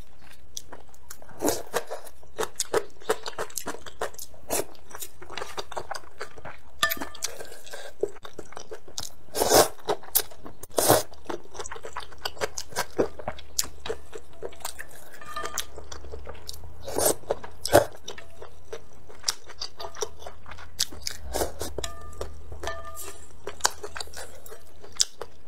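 Close-miked chewing and crunching of food from a bowl of spicy soup, with many small clicks and crackles and a few louder bursts about ten and seventeen seconds in.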